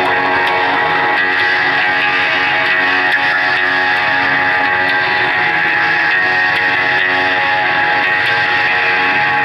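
Live band music led by guitar: a dense, steady wash of many sustained tones at an even, loud level.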